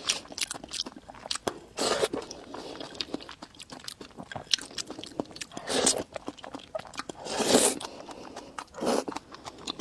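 Close-miked eating: chewing with many quick wet mouth clicks, and a few louder bites or mouthfuls about half a second long.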